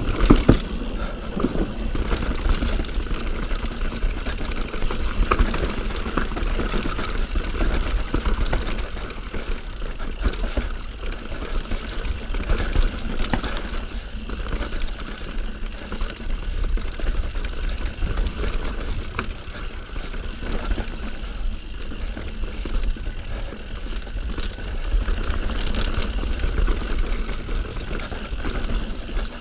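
Mountain bike riding down a rough dirt trail: steady wind buffeting on the camera microphone, with the rattle and clatter of the bike and its tyres over the ground.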